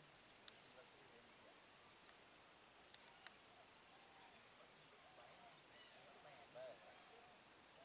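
Near silence: faint, scattered bird calls, with a run of repeated short notes in the second half, over a steady faint high-pitched tone.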